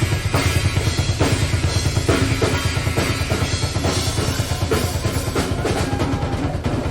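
Live rock drum kit solo: fast, continuous bass-drum strokes under snare and tom hits.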